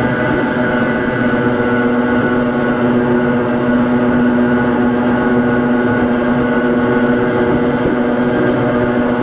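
Hakone Tozan Railway MoHa 1 electric car running with its nose-suspended SE121-A traction motors and gears whining, holding one steady pitch, over the rumble of the running gear.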